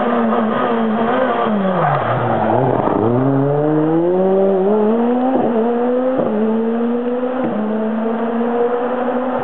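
Racing car engine: its pitch drops steeply about two seconds in, then climbs as the car accelerates, with three quick gear changes before it settles to a steady pitch.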